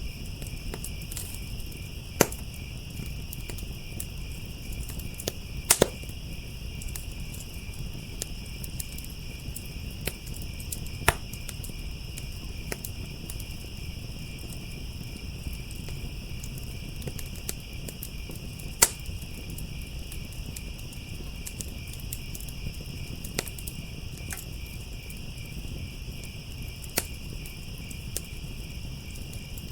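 Crickets chirping in a steady chorus over a crackling fire, with a low rumble and a handful of sharp pops from the fire scattered through.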